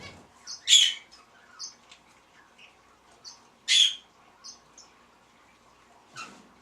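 Birds calling: short high chirps throughout, with two loud harsh calls about three seconds apart and a weaker one near the end.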